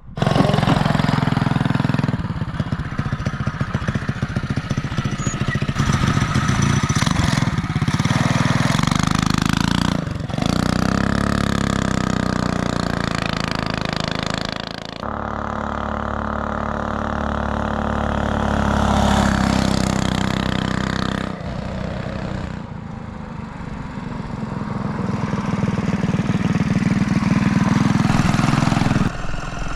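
Mini bike's small single-cylinder Predator engine running and revving, its pitch rising and falling as the throttle opens and closes. The sound changes abruptly several times between stretches.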